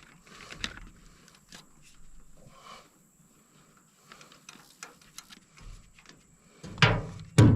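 Scattered faint metal clicks and scrapes of a wrench turning a bolt and jam nut on a Howse brush cutter. Near the end, louder rumbling handling noise and one sharp knock.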